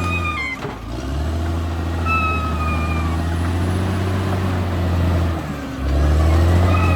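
Caterpillar D6R XL bulldozer's diesel engine running, with a steady high whine over its low drone. The engine note drops away briefly twice, about half a second in and again about five seconds in, then comes back up.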